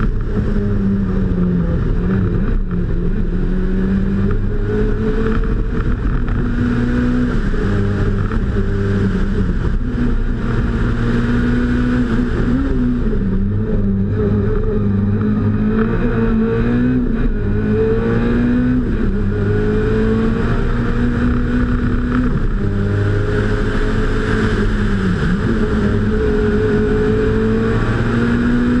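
Peugeot 106 Kit Car rally engine driven hard, its pitch climbing under acceleration and falling back again and again at gear changes and braking for bends.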